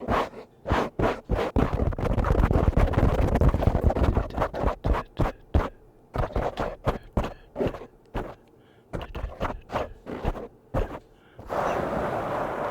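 Brush bristles stroked across a microphone in quick, scratchy strokes about two a second, with a stretch of rapid continuous scrubbing about two seconds in. Near the end it gives way to a steady rushing noise.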